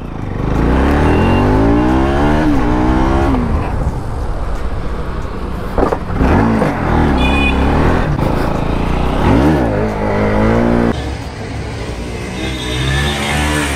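Bajaj Pulsar NS single-cylinder motorcycle engine revving hard under full throttle for a wheelie. Its pitch climbs steeply three times, falling back between the climbs, and it eases to a lower steady note near the end.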